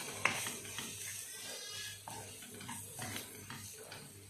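Onions, chicken and spices sizzling in a nonstick frying pan while a wooden spatula stirs them, with short scrapes and knocks of the spatula against the pan; the sharpest knock comes about a quarter second in.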